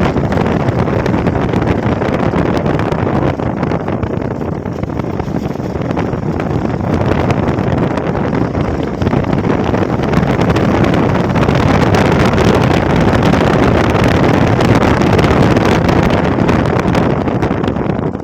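Wind rushing over the microphone while riding a Hero XPulse motorcycle, with the engine running underneath: a loud, steady rush that grows a little louder in the second half.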